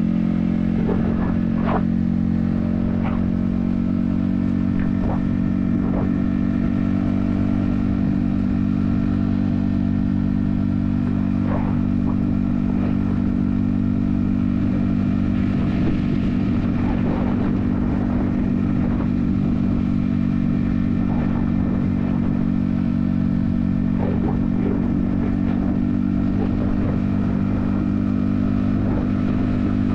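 Yamaha XSR155's 155cc single-cylinder engine running at a steady cruising speed on the highway, heard from a helmet-mounted camera, with a few faint clicks.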